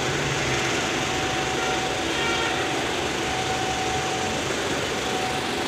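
Honda WR-V car engine idling steadily during a carbon-cleaning service, with a faint high whine that comes and goes.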